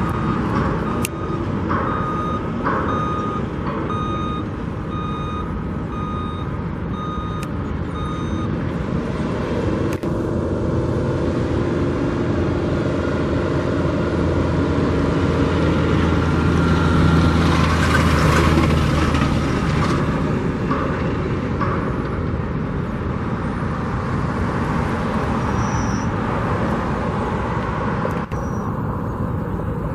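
Steady traffic noise with a vehicle's reversing alarm beeping about once a second for the first eight seconds. Then a heavy vehicle's engine swells past, loudest about halfway through, and fades.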